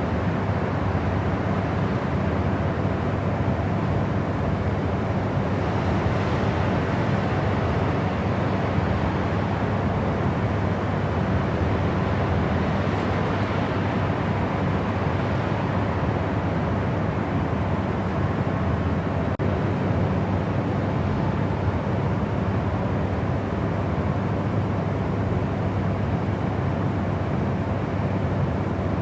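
Steady white-noise track: an even, unchanging rush weighted toward the low and middle range, with a momentary dip about nineteen seconds in.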